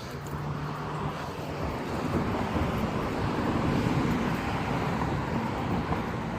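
Passing road traffic: the noise of a car swells to a peak about four seconds in and then eases off slightly.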